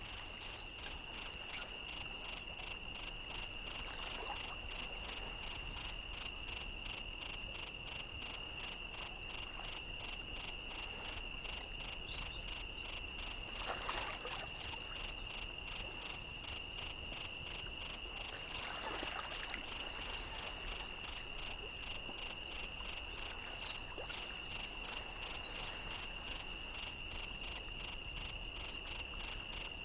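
Crickets chirping steadily: a constant high trill with a second, higher chirp pulsing evenly about two and a half times a second.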